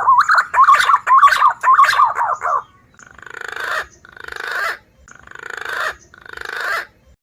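Green pigeon (punai) calls played as a bird lure: a fast run of wavering whistled notes for the first couple of seconds, then four separate raspy calls, each swelling in loudness and lasting under a second.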